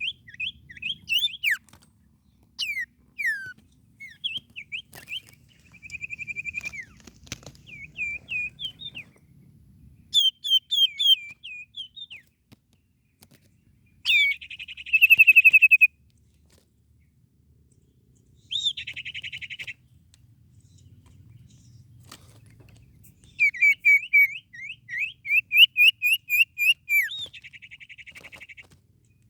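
A songbird singing vigorously in phrases: quick runs of repeated down-slurred whistled notes alternating with short buzzy, rattling trills, with brief pauses between phrases.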